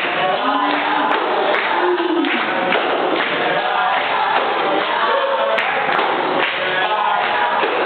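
Capoeira Regional roda music: a group of voices singing a chorus, accompanied by the berimbau and pandeiros.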